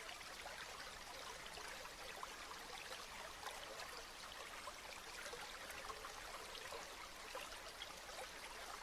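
Steady rain falling: an even hiss of many small drops pattering.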